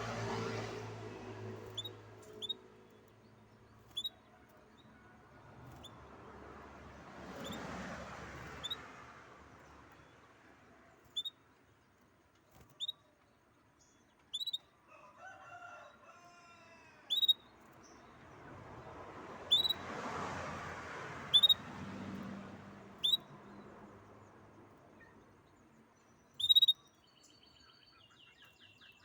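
A songbird giving single short, sharp chirps, each a quick downward flick, one every second or two. A rooster crows once midway, and another bird trills rapidly near the end.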